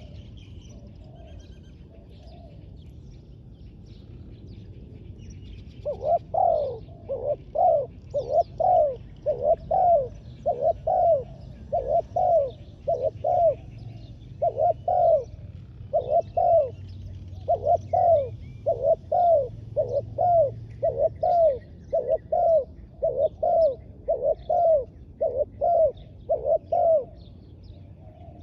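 Spotted dove cooing: a long run of low, repeated coo notes that starts about six seconds in and stops near the end. Faint chirps of small birds carry on in the background.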